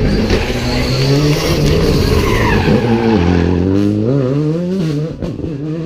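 Rally car engine at full load close by, the revs dropping sharply about three seconds in as it brakes and downshifts, then rising again in quick blips as it powers out of the corner. Tyre squeal rises over the engine early on.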